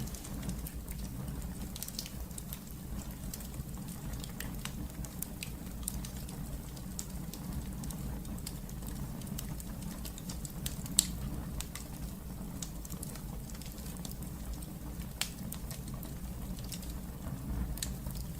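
Wood fire in a fireplace crackling, with scattered small pops and one louder snap about eleven seconds in, over a steady low rumble.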